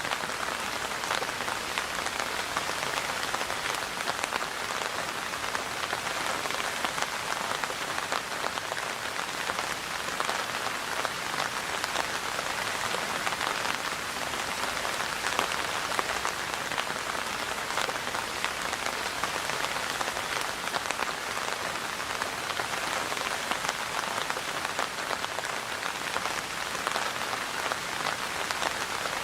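Steady rain falling and pattering on surfaces, a dense even hiss with many small drop ticks and no let-up.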